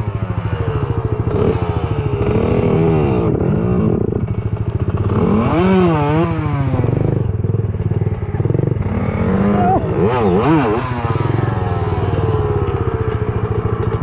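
Small pit bike engine idling, revved up and back down in three spells.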